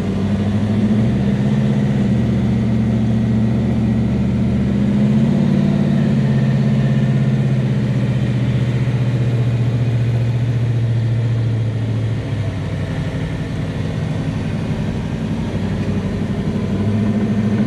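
Big-block V8 of a 1967 Chevelle drag car running under light load, heard from inside the car. The engine note lifts slightly about five seconds in, eases off and quietens around twelve seconds, then picks back up near the end.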